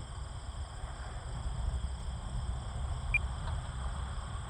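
Steady high whine of a distant electric RC plane's motor and propeller, a 68-inch Super Decathlon on 6S power, over a low rumble of wind on the microphone. One short high beep about three seconds in.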